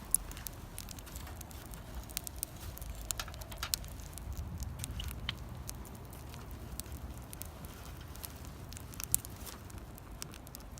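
Wood fire crackling, with irregular sharp pops and ticks scattered throughout, over a low steady rumble.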